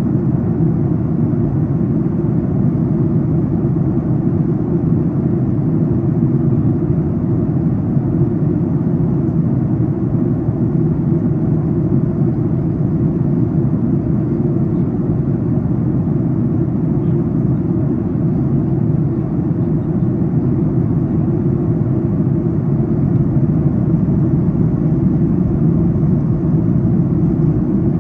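Steady cabin rumble inside a Boeing 737 MAX 8 during the descent: airflow over the fuselage and its CFM LEAP-1B engines, an even low noise with no changes.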